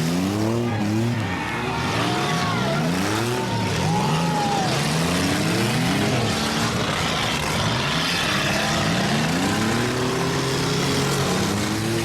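Several demolition derby car engines revving hard and dropping back again and again, their rising and falling pitches overlapping.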